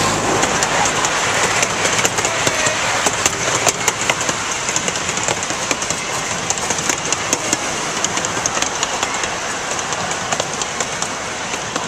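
Wheels of a small-gauge park train rolling along the rails, a steady rumble with irregular clicks and clacks over the rail joints, heard from an open passenger car.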